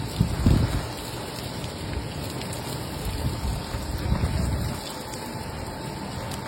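Heavy rain in a storm, a steady hiss, with gusts of wind hitting the microphone about half a second in and again around four seconds.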